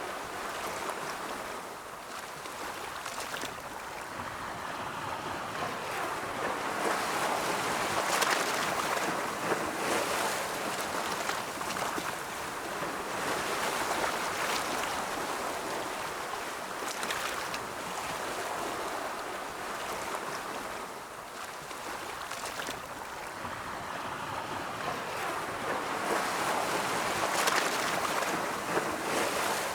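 Ocean waves rolling in and washing on the shore, a steady rush that swells and falls back every several seconds.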